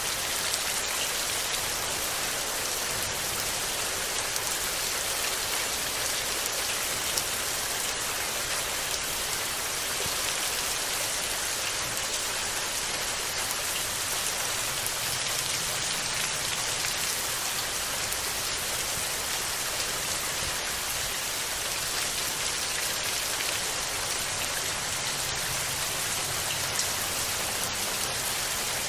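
Steady rain falling on leaves and the ground: an even hiss of many drops with scattered faint ticks.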